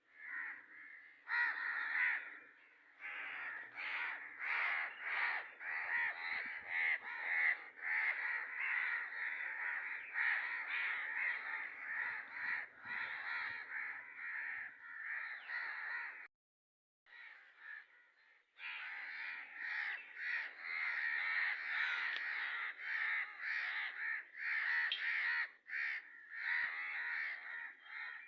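Birds calling continuously in rapid, overlapping calls, stopping for about two seconds a little past the middle.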